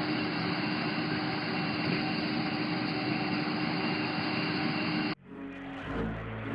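A vehicle engine running steadily with a constant hum, cut off suddenly about five seconds in, then music starts.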